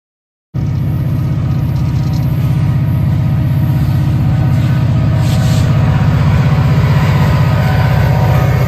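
Diesel-electric locomotive engine running close by, a loud, steady low throb that starts abruptly about half a second in.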